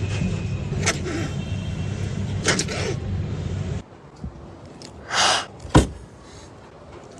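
Angry kitten hissing in short bursts, several times a second or two apart, with one sharp spit-like click between them.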